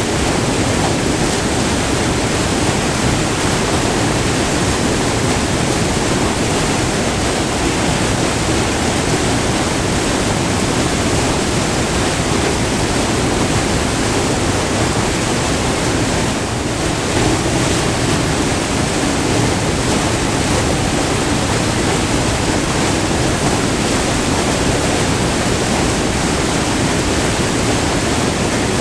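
A short, multi-tiered river waterfall, its white water rushing close to the microphone as a loud, steady, even wash of noise, easing off very slightly for a moment about halfway through.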